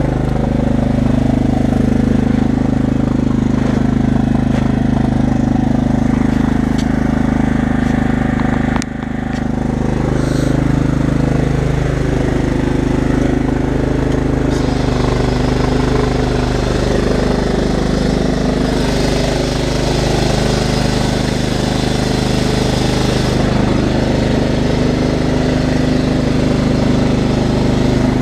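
15 hp Kohler engine of a 1997 Craftsman riding mower running steadily after its first cold start of the year. Its pitch shifts slightly a few times, with a brief dip about nine seconds in.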